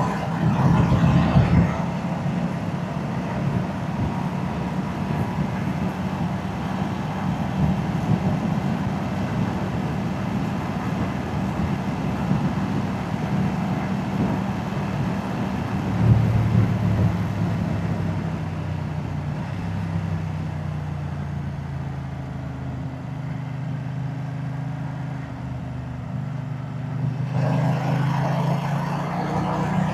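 Moto Guzzi transverse V-twin motorcycle engine and exhaust running under way at steady revs. About halfway through it picks up, then settles to a lower, quieter note for several seconds before opening up again near the end.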